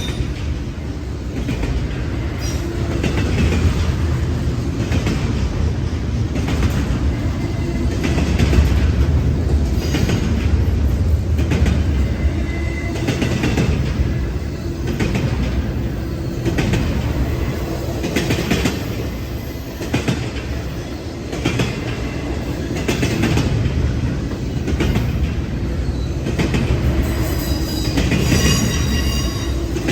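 Freight train cars rolling past at trackside: a steady low rumble of the wheels with repeated clicks of the wheels over rail joints and faint wheel squeal.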